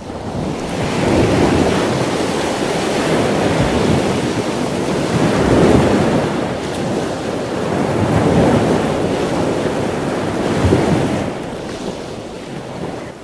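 Ocean waves washing in a steady rush of surf that swells and eases every few seconds.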